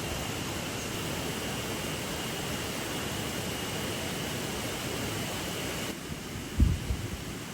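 River water running steadily, an even rushing hiss, with a faint steady high tone above it. The sound drops a little about six seconds in, and a short low thump follows.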